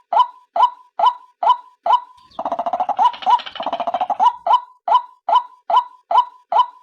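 Female white-breasted waterhen call played as a lure: a loud note repeated about twice a second, broken about two seconds in by a rapid, laugh-like chattering run lasting about two seconds, after which the steady notes resume.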